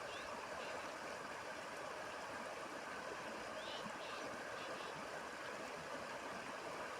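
Faint steady outdoor background hiss in a lull between calls, with a couple of faint distant bird chirps, one near the start and one about halfway through.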